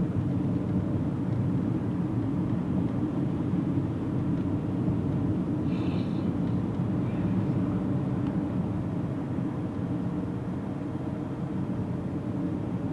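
Steady low rumble of a car's engine and tyres heard from inside the moving car, with a brief faint higher sound about six seconds in.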